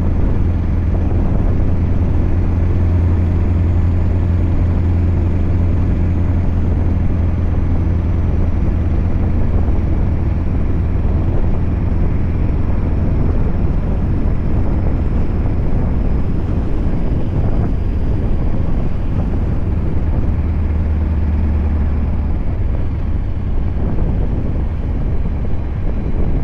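Scania R580's 16-litre V8 diesel with an 8-inch straight pipe, running steadily as the truck drives with a deep drone. The drone eases about ten seconds in, swells again briefly a little after twenty seconds, then eases off.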